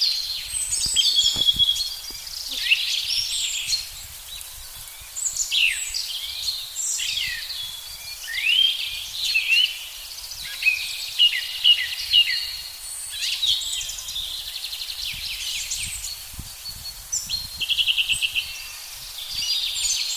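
Several songbirds singing and calling over each other: quick chirps, down-slurred whistles and short trills, with a fast, even trill a few seconds before the end.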